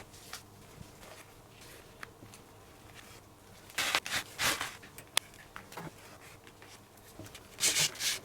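Leather glove lace being pulled through a baseball glove's lacing holes: two short clusters of rubbing, swishing strokes, about four seconds in and near the end, with a single sharp click in between.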